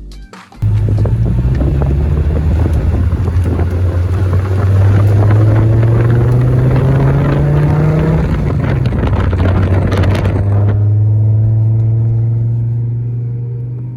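Car driving, its engine giving a steady low drone that rises slightly in pitch midway and settles again, under loud wind and road noise. The wind and road noise cuts off abruptly about ten seconds in, leaving the engine hum.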